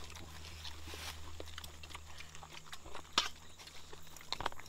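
People eating close by: chewing, with scattered small clicks, one sharper about three seconds in and a few more near the end.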